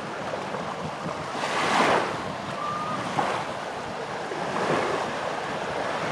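Surf washing up on a sandy beach: a steady hiss of waves, with the loudest wave breaking about two seconds in and smaller ones later.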